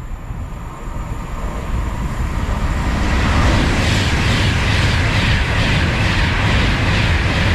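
Avanti West Coast Class 390 Pendolino electric train running through the station at speed: a rush of wheels on rail and air that builds over the first few seconds, then holds loud with a steady beat of the bogies going by, about two or three a second.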